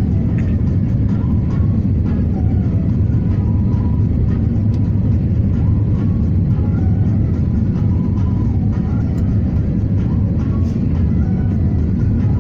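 Jet airliner noise heard from inside the passenger cabin: a steady, loud, low rumble of engines and rushing air.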